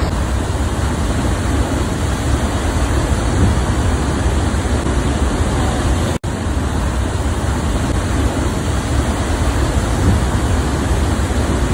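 Steady rushing noise of a large waterfall's falling water, with a split-second break about six seconds in.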